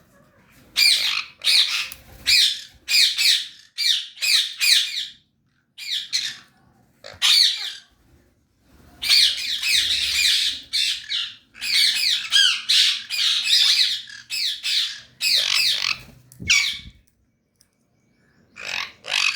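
Sun conures screeching: a run of loud, harsh, shrill squawks repeated in quick bouts, with short pauses between the runs.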